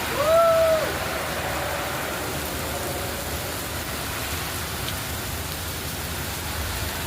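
Steady rain falling, with a person's short call near the start, rising, holding and then falling in pitch.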